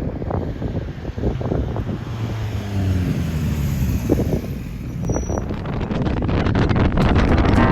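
Suzuki GSX-S1000 inline-four motorcycle engine running, with its pitch falling about three seconds in, under wind noise on the microphone.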